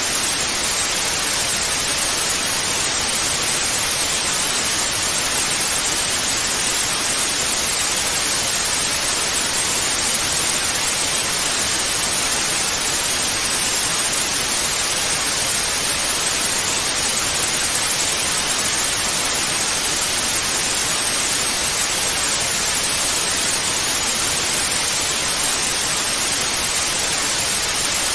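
Analogue TV static: a steady, even hiss of white noise, with more weight in the highs than the lows.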